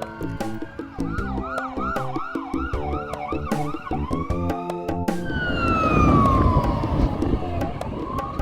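Emergency vehicle siren on a fast yelp, switching about five seconds in to a slower falling wail, with music and a steady beat playing over it.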